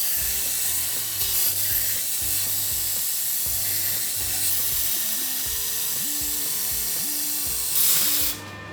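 Lathe boring 17-4PH stainless steel in an interrupted cut: a steady hiss from the cut, which stops abruptly near the end. Background music with a low stepping bass line plays underneath.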